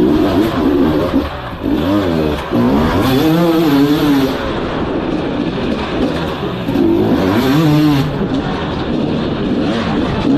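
Motorcycle engine revving up and down repeatedly in rapid swells during stunt riding.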